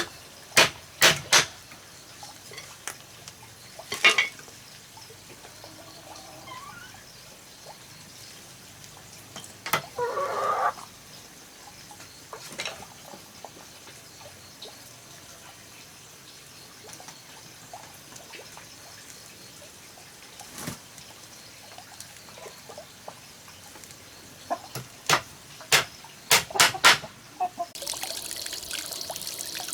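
Scattered sharp knocks and taps, a few in quick clusters, with a steady pour or trickle of water starting near the end.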